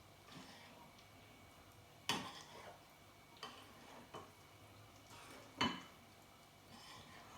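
A spoon clinking against a bowl of porridge: four sharp, separate clinks a second or so apart, with quiet between them.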